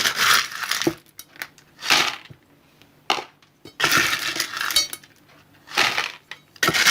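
Small crushed stone scooped with a spoon and poured into a bonsai pot as a drainage layer, rattling and clinking in about five bursts. The longest burst comes in the middle.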